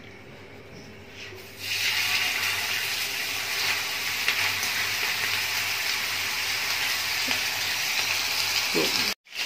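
Chapli kabab, a flat minced-meat patty, sizzling in hot oil on a flat iron tawa. The sizzle starts suddenly about one and a half seconds in, as the patty goes onto the griddle, and then stays steady.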